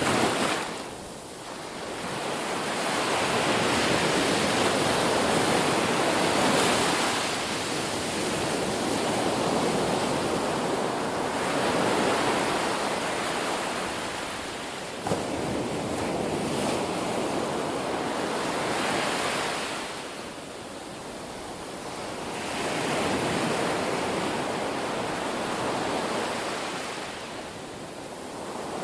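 Ocean waves breaking on a shore, a wash of surf that swells and falls away in slow surges every several seconds.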